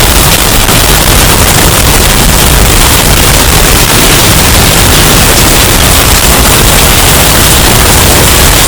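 Hurricane wind sound effect, bass-boosted and clipped into a loud, steady wall of distorted noise.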